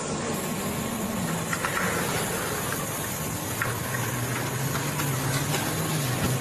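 An engine running steadily under a steady hiss.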